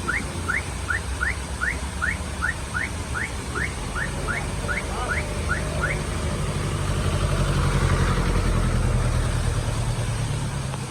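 A train of short rising chirps, about three a second, that stops about six seconds in, over a vehicle engine running. The engine grows louder after about seven seconds.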